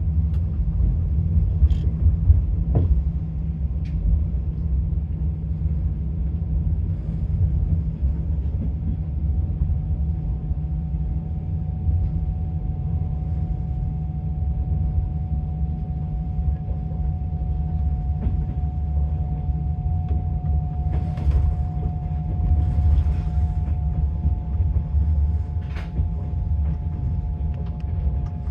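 Passenger train running, heard from inside the carriage: a steady low rumble of the wheels on the track, with a few sharp clicks and knocks near the start and once near the end. A faint steady whine comes in about a third of the way through.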